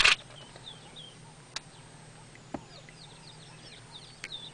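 Small birds chirping, with many short high notes throughout. A brief loud burst of noise right at the start is the loudest sound, and a few faint clicks follow.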